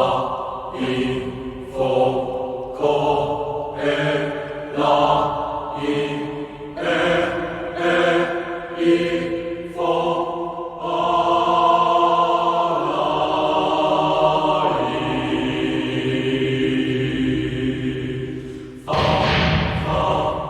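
Chant-like vocal music from a demonstration CD: short sung phrases about a second apart, then one long held chord, broken near the end by a sudden louder entry.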